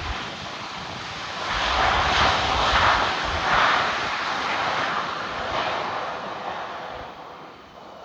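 Airplane engine noise as an aircraft passes: a rushing roar that swells about a second and a half in, peaks over the next couple of seconds, then slowly fades away.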